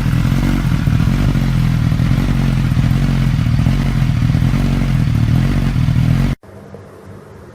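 Suzuki GSX-S1000's inline-four engine idling steadily with a low, even exhaust note. It cuts off abruptly near the end, leaving a much quieter background.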